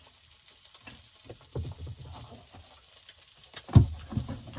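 Eggs frying in a pan with a steady light sizzle and crackle, and a sharp knock about three-quarters of the way through.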